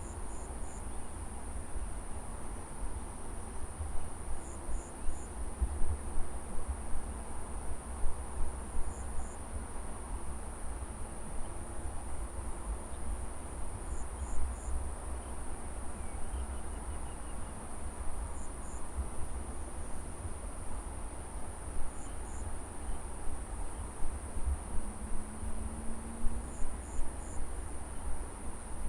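Insects in a harvested paddy field: a steady high-pitched cricket drone, with short chirps in twos and threes every few seconds. A low rumble rises and falls underneath.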